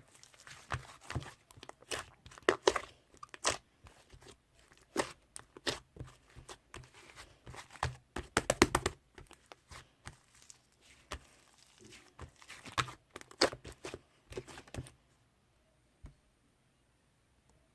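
Slime being squeezed, stretched and pressed by hand, giving a dense run of wet crackles and pops that stops about fifteen seconds in, with one last click shortly after.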